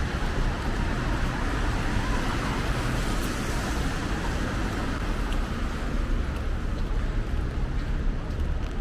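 Steady road traffic on a rainy day: a constant hiss of tyres and rain over a low engine rumble, with no single vehicle standing out.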